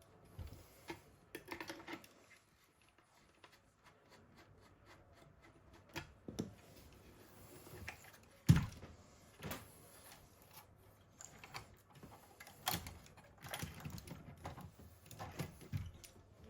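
Scattered clicks and knocks of small model parts being handled as a 1/10 scale RC half-track is taken apart by hand, the loudest knock about eight and a half seconds in.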